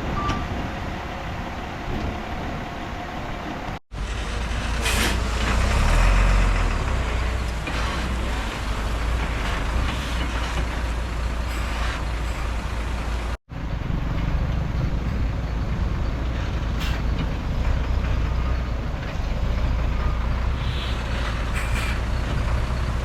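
Heavy diesel earthmoving machinery, a bulldozer and dump trucks, running steadily with a deep engine rumble, with a few short hissing or clanking noises on top. The sound drops out abruptly twice, at about four seconds in and again about halfway through.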